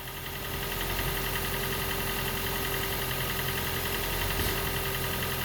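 Toyota Prius Gen 2's 1.5-litre four-cylinder petrol engine running steadily, just brought back to life after a no-start fault. It gets a little louder about a second in, then holds steady.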